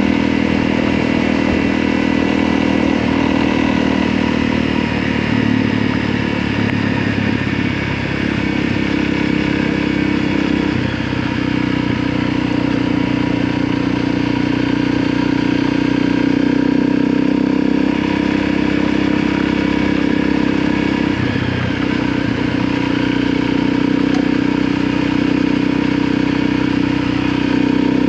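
Motorcycle engine running steadily under way over a rush of road and wind noise, its pitch stepping up and down a few times as the throttle changes.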